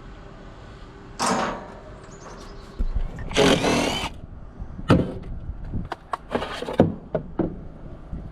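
Tools and parts being handled during a repair: a short scrape about a second in, a longer rustling scrape near the middle, then a run of sharp clicks and knocks.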